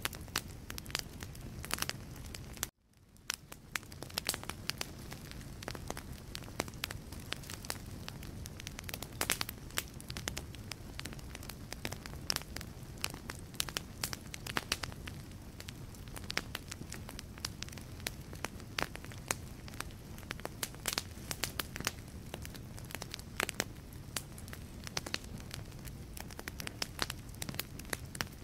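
Wood fire burning in a fireplace, with frequent sharp crackles and pops of the logs over a low, steady rumble of the flames. The sound cuts out for a moment about three seconds in and fades back in.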